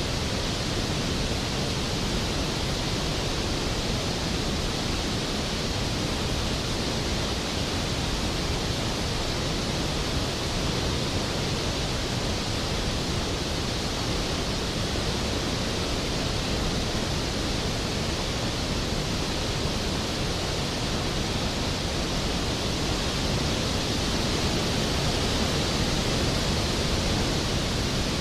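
Skógafoss waterfall, a large glacier-fed falls, crashing down in a steady, even roar of water.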